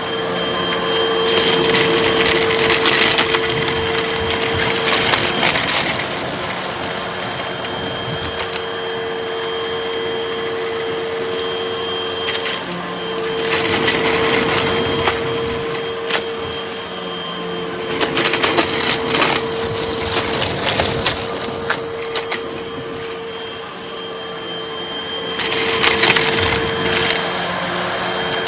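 Hoover vacuum cleaner running with a steady motor hum, sucking up crunchy debris that crackles and rattles through it in four spells of a few seconds each.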